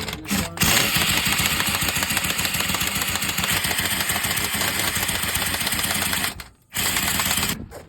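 Loud, rapid mechanical rattle from a machine or power tool, running for about six seconds, cutting out briefly, then running again for about a second.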